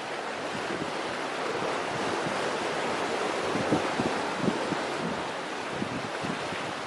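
Sea surf washing on a beach, a steady rushing that swells towards the middle, with gusts of wind buffeting the microphone in short low thumps.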